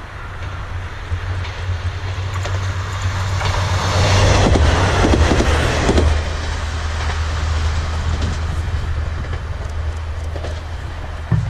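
A Kanto Railway diesel railcar running some way off: a steady low engine hum with rolling noise that swells to its loudest about four to six seconds in, then eases off.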